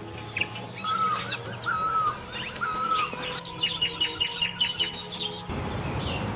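Birds singing: a slurred whistled note repeated three times, overlapped by higher calls, then a rapid run of short high chips about five a second.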